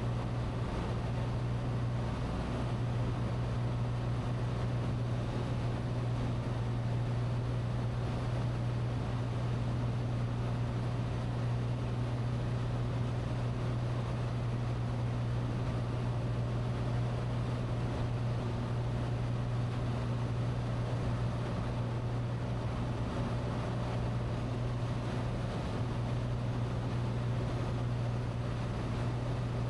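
Cessna 182T's six-cylinder Lycoming IO-540 engine and propeller droning steadily in cruise, heard from the cockpit with a deep, unchanging hum.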